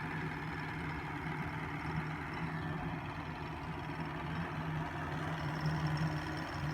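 The engine of a 1994 Four Winns Fling jet boat idling steadily.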